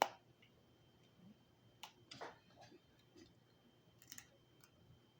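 Close-miked eating noises while working through steamed lobster: a few sharp clicks and small smacks scattered through an otherwise quiet stretch. The loudest comes right at the start and a quick pair about four seconds in.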